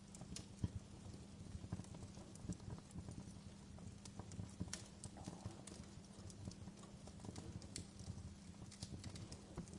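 Campfire wood burning: irregular crackles and sharp pops over a steady low rumble of the flames.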